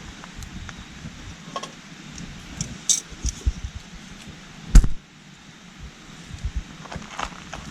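Scrap-wood campfire burning with scattered small crackles and pops, the loudest a sharp pop a little under five seconds in, over the steady rush of a nearby stream.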